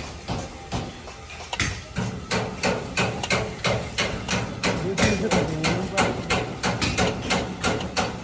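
Rapid, regular hammering, about three blows a second, with a steady low hum underneath from about two seconds in.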